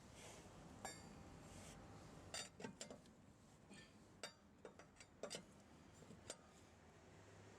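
Faint, scattered metallic clinks and taps, about a dozen of them, from hand tools and wheel parts being handled during a tyre change.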